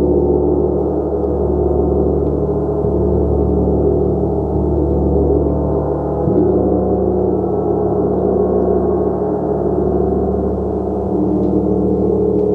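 A gong being played continuously, giving a dense, sustained wash of many overlapping tones with a low throbbing underneath. Fresh swells come in about halfway through and again near the end.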